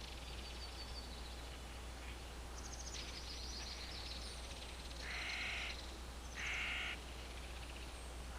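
Two harsh bird calls, a little over a second apart, over fainter high-pitched chirping and a low steady hum.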